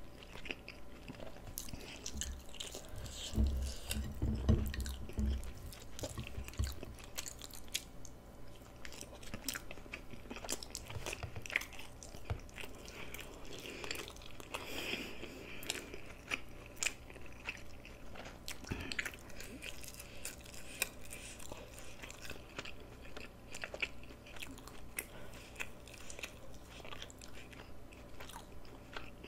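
Close-miked eating: steady chewing with crunchy bites and wet mouth clicks. A few low thuds come about four seconds in.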